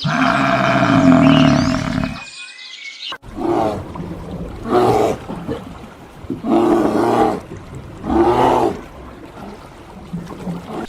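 Large animal calling: one long pitched call, then after a short break four deep calls in a series, about one and a half to two seconds apart.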